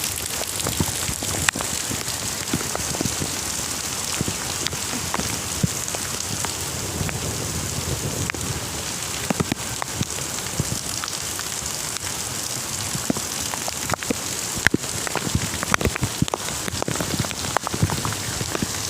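Heavy cyclone rain pouring and pattering steadily, with many sharp drop hits and the rush of gusting wind.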